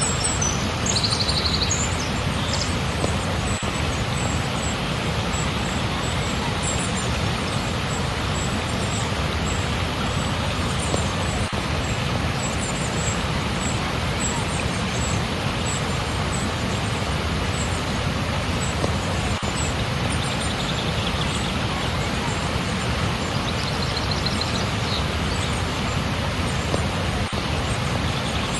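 Steady rush of flowing water, unbroken and even, with short high chirps scattered over it.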